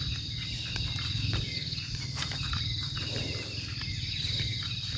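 Steady high-pitched chorus of insects, over a low rumble with a few faint knocks.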